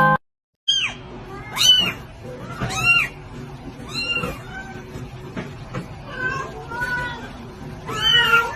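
Kitten meowing over and over: short, high-pitched mews that rise and fall, about one a second.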